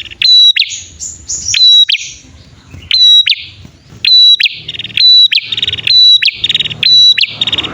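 Male and female prenjak (prinia-type songbirds) calling over each other: loud, sharp whistled notes about once a second, each ending in a quick downward flick, with fast buzzy trills in between, the duet used as a lure call.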